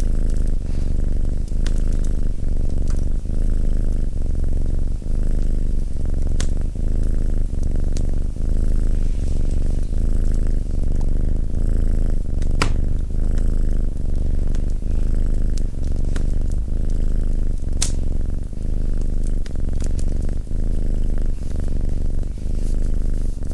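A domestic cat purring steadily and loudly, the purr swelling and easing in a regular rhythm with each breath in and out. A few sharp crackles from a wood fire pop over it.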